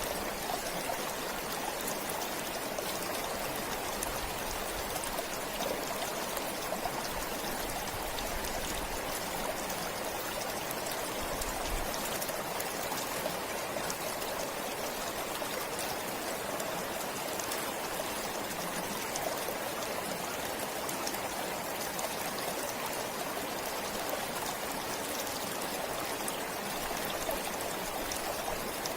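Forest stream flowing steadily, an even rush of running water with small splashes and trickles.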